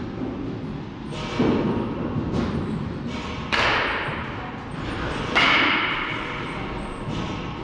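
Baseball practice impacts: three sharp hits about two seconds apart, the last two bright and ringing, each echoing on in a large room.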